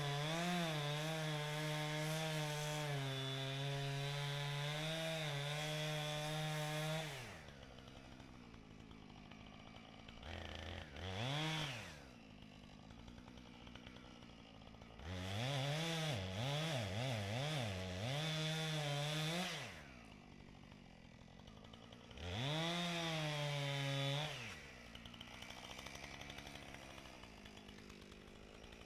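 Husqvarna 455 Rancher two-stroke chainsaw at full throttle cutting into a large oak, dropping to idle about seven seconds in. It is then revved again between stretches of idle: a short blip, a few seconds at high revs with the engine note wavering, and one more short burst.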